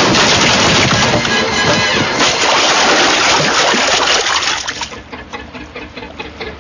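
Film soundtrack: a loud, dense noise for about four and a half seconds, which then drops away to quieter rhythmic music.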